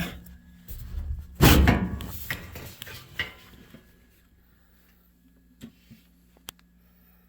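A loud clattering knock about a second and a half in, followed by a couple of lighter knocks and, later, a few faint sharp clicks, over a faint steady low hum.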